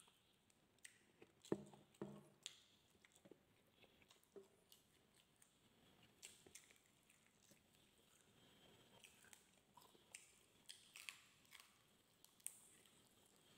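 Faint mouth sounds of a person chewing and biting roast pig head meat and skin eaten by hand, with scattered wet clicks and smacks and two louder bites or chews about one and a half to two seconds in.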